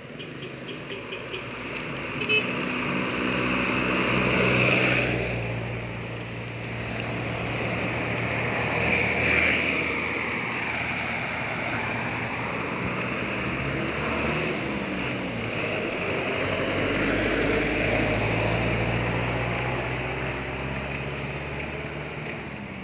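Motor vehicles passing on a street, engine and tyre noise swelling and fading as they go by, with a brief horn toot about two seconds in.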